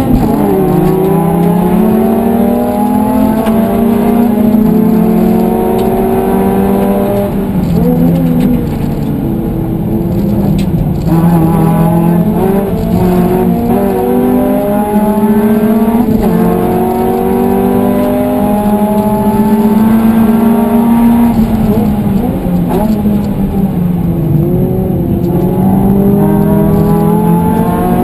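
Suzuki Swift Sport ZC32S's 1.6-litre four-cylinder engine, heard from inside the cabin under hard acceleration. Its pitch climbs in repeated rising sweeps, each cut short by a drop at a gear change. About eight seconds in it eases off and falls in pitch for a few seconds, then pulls up through the gears again.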